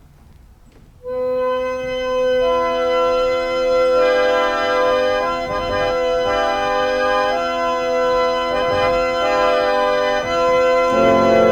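Sustained organ chord swelling in about a second in, held steady with more notes layered on top, and lower bass notes joining near the end.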